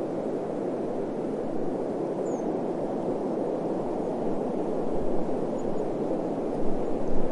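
Desert wind blowing as a steady, even rush, with two stronger low gusts, one about five seconds in and one near the end.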